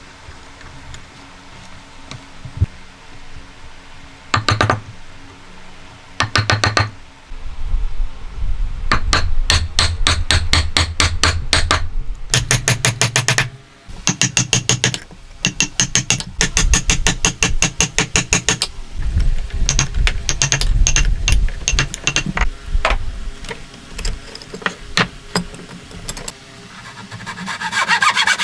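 Hammer striking wood in rapid runs of many blows a second, after a quieter start with two short bursts. Near the end a hand saw starts cutting wood.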